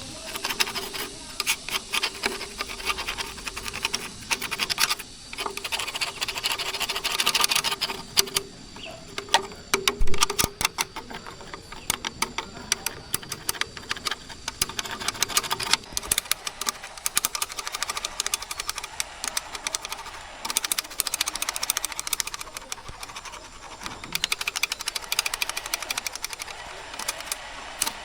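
Rapid, irregular mechanical clicking and rattling of hand tools at work, with a faint steady hum for the first ten seconds and one louder knock about ten seconds in.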